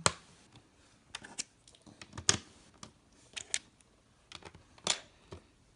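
Plastic Lego pieces being handled and pressed into place, a string of sharp, irregular clicks.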